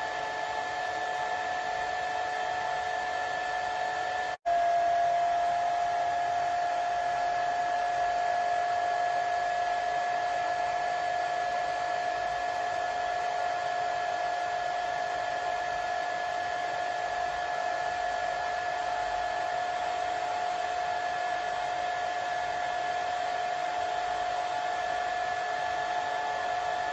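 Hair dryer running steadily: a continuous blowing rush with a steady motor whine. About four seconds in it cuts out for an instant and comes back a little louder and slightly lower in pitch.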